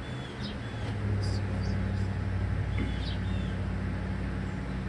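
A steady low machine hum that swells about a second in, with a few short high chirps over it.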